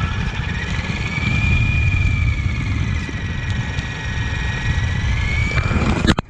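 Brushless electric RC car running at speed: a high motor whine that rises and wavers in pitch over a heavy low rumble, breaking up into choppy bursts near the end.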